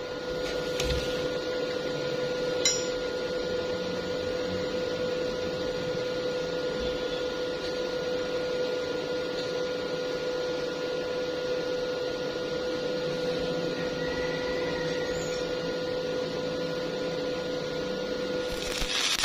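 Steady machine hum holding one tone, with a single sharp click about three seconds in; near the end a louder harsh hiss sets in.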